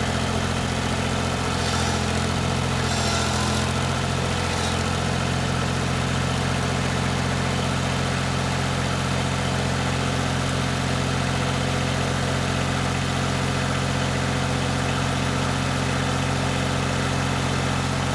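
1988 Yanmar 336D tractor's three-cylinder diesel engine running steadily at raised throttle, back in running order after sitting six years.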